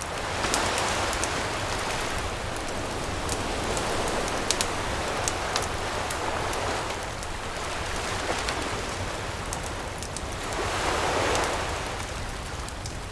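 Waves washing onto a beach, the surf swelling and fading every three to four seconds, while a campfire crackles with scattered sharp pops.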